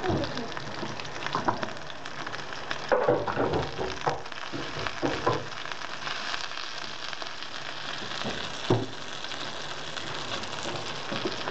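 Hake fish patties sizzling in hot oil in a frying pan, a steady hiss, with a few short clinks and scrapes of a metal fork against the pan as they are turned over.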